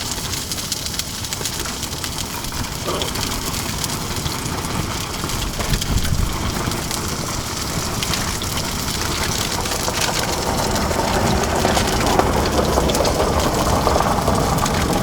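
Salmon and garlic frying in oil in a pan on a propane stove: steady sizzling and spitting that grows a little louder over the second half.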